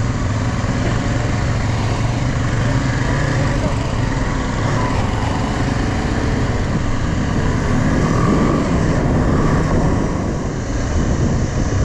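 Motorcycle engine running at a steady speed on the road, mixed with a loud, even rush of wind and road noise.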